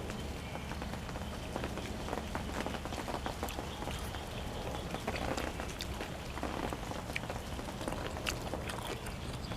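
Close-up eating sounds: a person chewing and crunching food, with many irregular wet clicks and crackles over a steady low hum.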